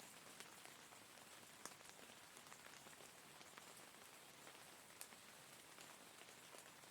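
Faint steady rain: an even hiss of falling rain with scattered drops ticking on a surface, a few of them sharper and louder.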